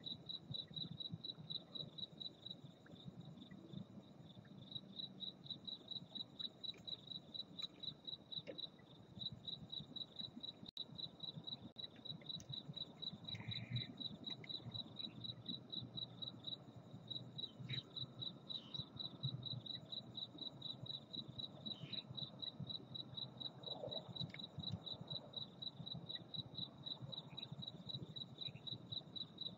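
A cricket chirping steadily, a high, even pulse repeating several times a second, over a faint low background rumble. A single sharp click about eleven seconds in.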